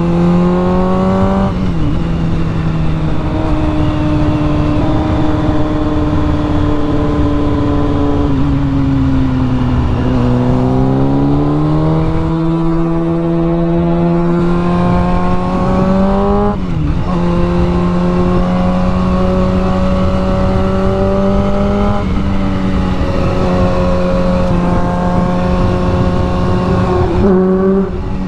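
Honda Grom's small single-cylinder four-stroke engine under way. It revs up and drops back in pitch at each upshift, eases off and slows about a third of the way in, pulls up again, then holds a fairly steady cruise with a couple more shifts.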